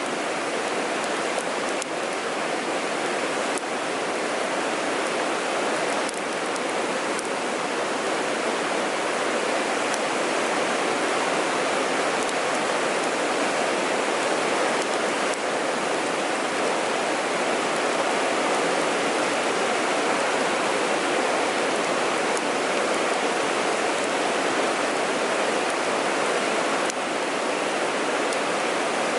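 Mountain stream water rushing in a steady, unbroken wash.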